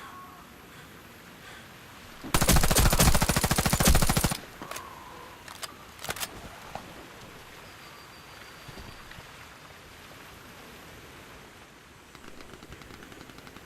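An integrally suppressed AS Val 9×39 mm rifle firing one long automatic burst of about two seconds, its shots too rapid to count apart. A few fainter sharp cracks follow.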